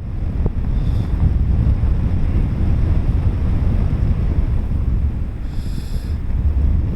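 Airflow buffeting the microphone of a paraglider in flight: a loud, steady wind rumble. A short high-pitched tone sounds about five and a half seconds in.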